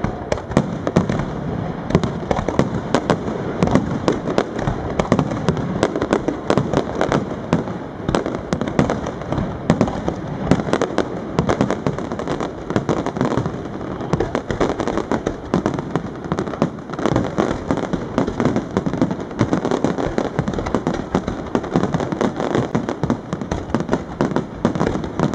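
Fireworks display going off in a dense, unbroken barrage of bangs and crackling pops, many a second.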